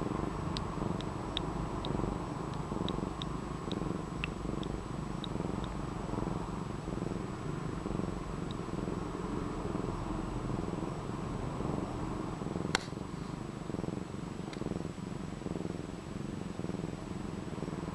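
Domestic cat purring steadily while dozing, a continuous low rumble. A series of faint ticks sounds during the first few seconds, and there is a single sharp click about 13 seconds in.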